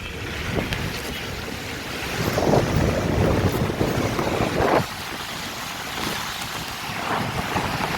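Floodwater surging and splashing, with louder splashes about two and a half and nearly five seconds in, and wind buffeting the microphone.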